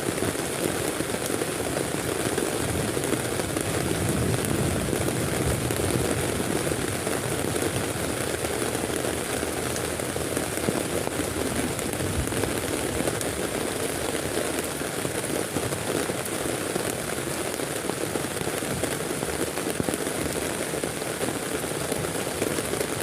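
Heavy rain falling steadily on a tent: a dense, even hiss made up of countless small drop impacts.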